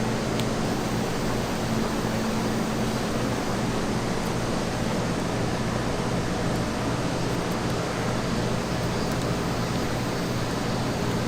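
Steady machine hum and hiss, unchanging throughout, with a few faint ticks.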